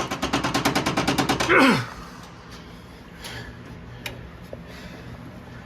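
Ratchet wrench clicking fast, about twelve clicks a second, for under two seconds, ending in a short squeal that falls in pitch.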